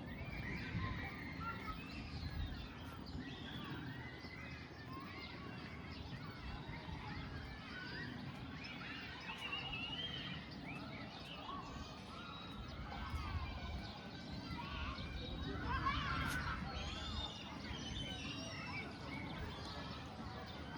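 Many birds chirping and calling over one another, over a steady low rumble.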